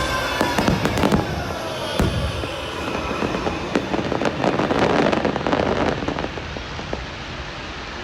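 Fireworks going off in a rapid string of sharp bangs and crackles, thinning out over the last couple of seconds.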